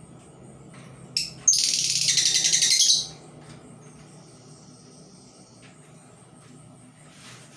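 A labet bird kept as a decoy, giving one short note and then a loud, rapid, high chattering trill that lasts about a second and a half. A faint, thin, steady whistle follows a few seconds later.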